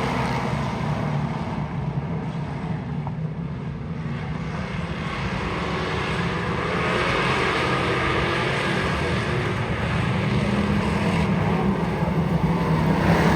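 Race car engine running on an asphalt oval, easing off for a moment a few seconds in and then building again.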